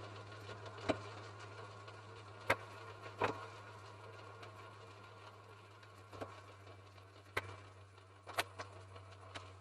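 Jeep Grand Cherokee WJ engine idling as a quiet, steady low hum, with about seven sharp clicks and knocks scattered through it.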